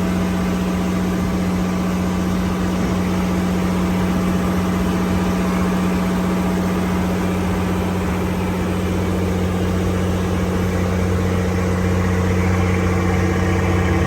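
Boat engine running at a steady speed with a constant hum, its note shifting a little about nine seconds in and growing slightly louder near the end.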